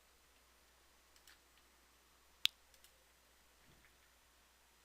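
A single sharp computer mouse click, with a couple of much fainter clicks around it, over near silence.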